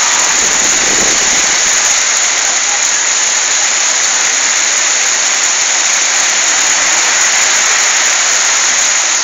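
Heavy rain pouring steadily, with a brief low rumble about a second in.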